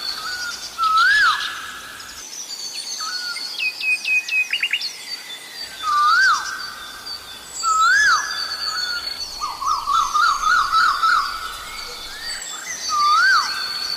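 Asian koel calling over and over, a rising-then-falling note repeated every few seconds, with a quick run of rising notes about ten seconds in. Other small birds chirp and trill at a higher pitch throughout.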